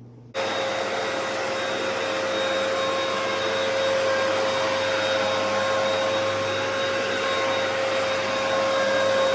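Vacuum cleaner switched on about half a second in, then running steadily with a high motor whine over a loud rushing hiss.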